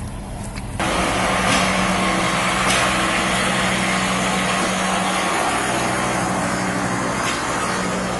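Passenger train passing close by: a steady rumble of steel wheels on the rails with a low steady hum underneath and a few faint clacks. It starts suddenly about a second in.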